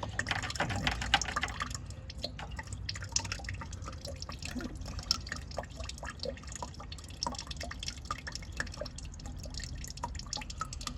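Dirty radiator coolant dripping and splashing from a truck's cooling system, a quick run of splashes in the first couple of seconds, then scattered drips.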